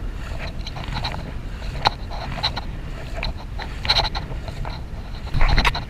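Kayak on the move: scattered knocks and splashes of the paddle and water against the hull over a steady low rumble of wind on the microphone, with a louder burst of splashing a little after five seconds in.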